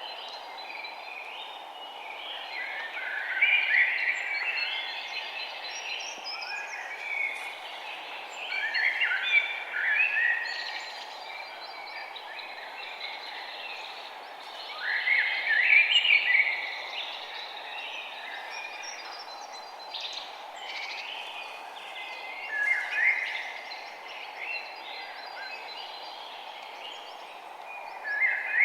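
Songbirds chirping and trilling in short clusters, several calls at a time, over a steady background hiss.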